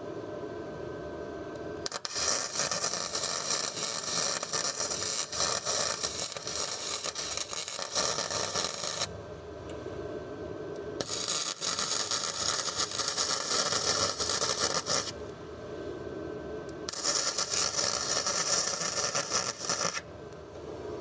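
Arc welding on steel chassis metal: three runs of steady crackling hiss, the first about seven seconds long and the next two about four and three seconds. Under them and in the pauses, a generator powering the welder runs with a steady hum.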